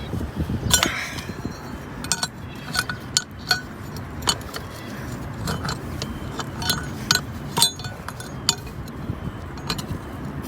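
Metal clinking and tapping: about a dozen sharp clinks at irregular intervals, over a low steady rumble.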